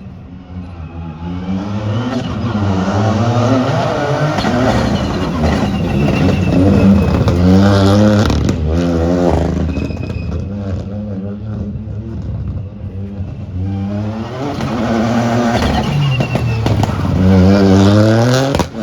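Rally car engine driven hard on a special stage, its pitch climbing and dropping back again and again as it shifts up through the gears. It surges twice, loudest about seven seconds in and again near the end.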